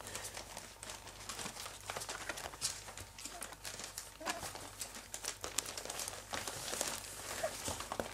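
Three-week-old cocker spaniel puppies scrabbling and rustling about, with many small scratchy clicks. Two brief faint squeaks come through, one about four seconds in and one near the end.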